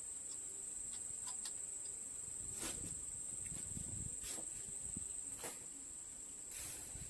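A steady high-pitched insect drone, like a cricket, with a few sharp clicks and knocks and a short swish near the end.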